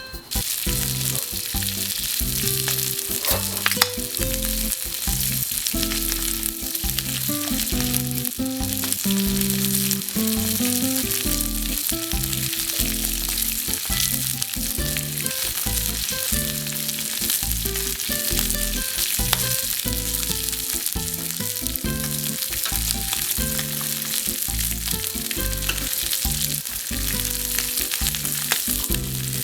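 Meat frying in an iron frying pan with a steady sizzle, over background music.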